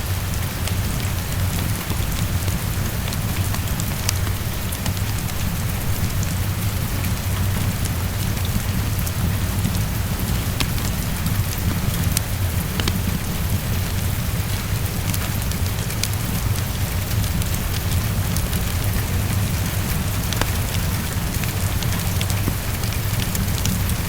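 Heavy rain on a window: a steady hiss with a deep low rumble underneath and many small sharp taps scattered through it, mixed with a crackling fireplace.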